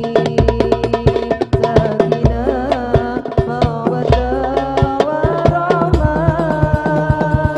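Hadroh ensemble playing: rapid hand-struck frame drums and a deep bass drum in a driving, dense rhythm. A held, wavering melody line runs above the drums.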